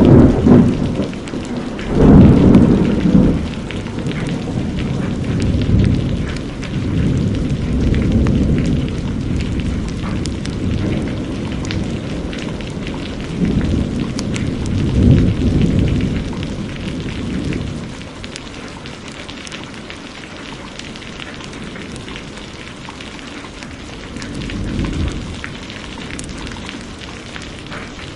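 Heavy rain falling steadily, with rolling thunder rumbling through it several times; the loudest clap comes about two seconds in, another long roll around the middle, and a fainter rumble near the end.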